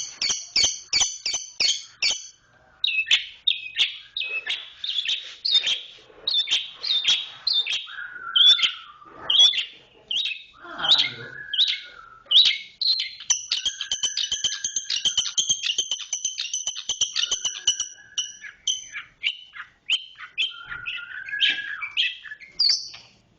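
Long-tailed shrike (cendet) singing a varied run of quick high chirps and whistled notes, some sliding down in pitch, with a long stretch of rapid, closely repeated notes (the tight "roll") in the middle.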